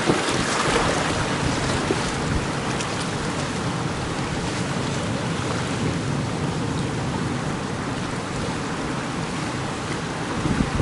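Gale-force sea wind blowing across the microphone with surf on the shore behind it, a steady rush of noise that is a little louder in the first second.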